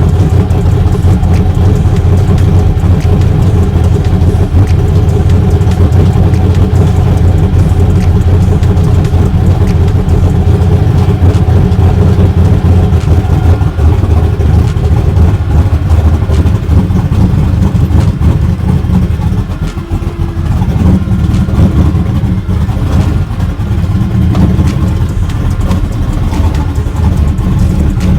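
Car engine running loud and steady with a deep exhaust note, easing off briefly about twenty seconds in.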